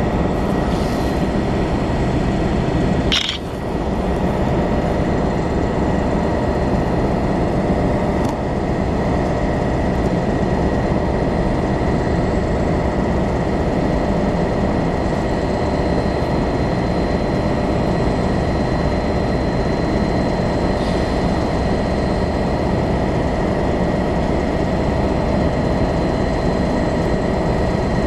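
Great Western Railway Class 800 bi-mode train standing at the platform, giving a steady drone with a constant high whine. A short hiss comes about three seconds in.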